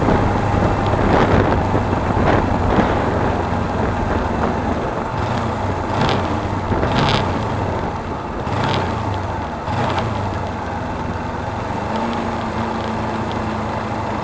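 Suzuki V-Strom 250's parallel-twin engine running under way, over a steady rush of wind and road noise. A few short ticks come around the middle.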